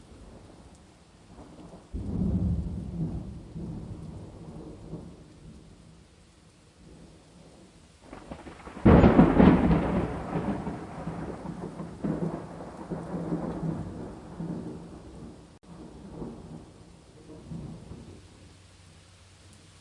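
Two peals of thunder over a steady hiss of rain. The first starts suddenly about two seconds in and rumbles away over a few seconds; a louder, sharper crack comes near the middle and rolls on in waves for several seconds before dying back to the rain.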